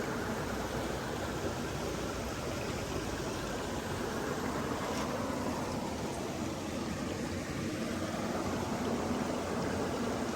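Flowing stream water making a steady, even rushing sound.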